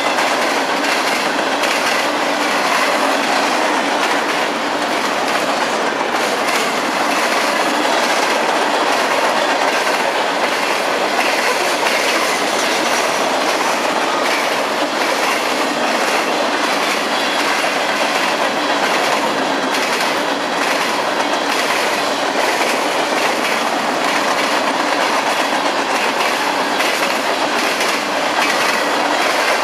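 A freight train rolling past at steady speed, its wheels clicking over the rail joints in a continuous run of clacks over the rumble of the cars.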